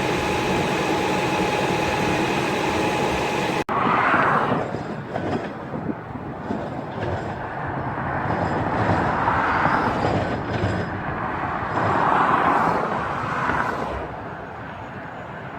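Subway train in a station: a steady hum with held tones for the first few seconds, then, after an abrupt break, rail rumble that swells and fades several times and eases off near the end.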